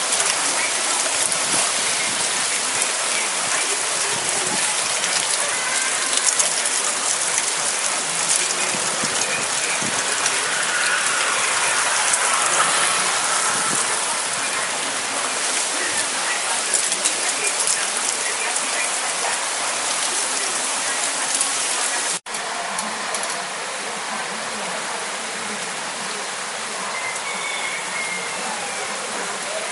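Rain falling steadily in a storm, an even hiss. It cuts out for an instant about two-thirds of the way through and carries on a little quieter.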